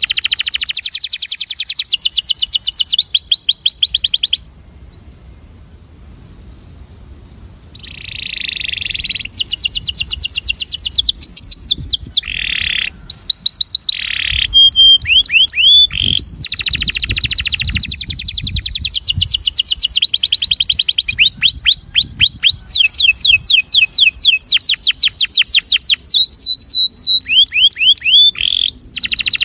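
Male canary singing: long, fast trills of rapidly repeated sweeping notes that change pace and pitch from phrase to phrase, with a pause of about three seconds near the start.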